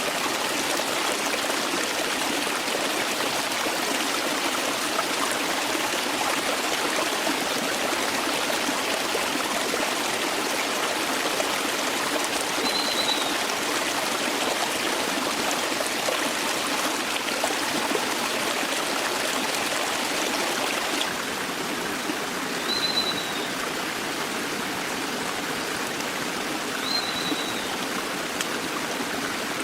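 Forest stream flowing steadily, an even rush of water that turns slightly quieter about two-thirds of the way through. Three short, high, falling chirps sound over it, one about halfway and two near the end.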